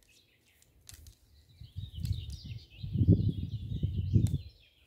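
Small birds chirping and twittering throughout. From about two seconds in to near the end, a louder low rumbling noise sits under them.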